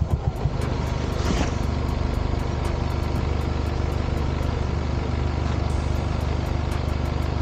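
A vehicle engine running steadily at an even speed: a low, constant drone.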